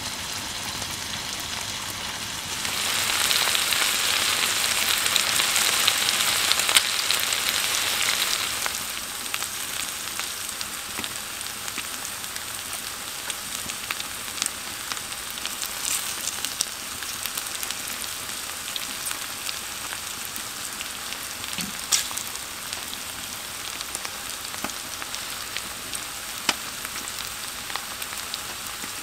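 Pork neck steak and vegetables sizzling on a camping griddle. A louder burst of sizzling lasts about six seconds near the start, then settles into a steady sizzle with scattered pops and spits.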